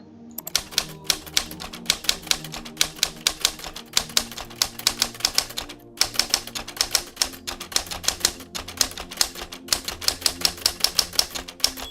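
Typewriter sound effect played back: rapid, uneven key clacks, several a second, with two short pauses about four and six seconds in.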